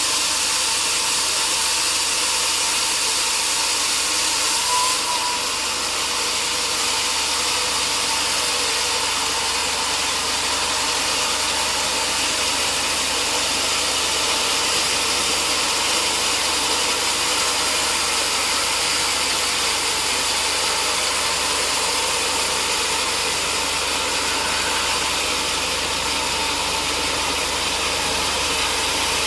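Sawmill machinery running steadily at a constant pitch, with no change in load.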